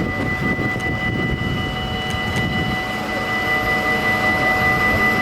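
Steady machinery hum: a low engine rumble with several constant high whining tones over it.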